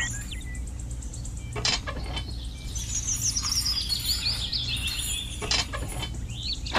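Birds chirping in quick runs of short high whistles over a steady low hum.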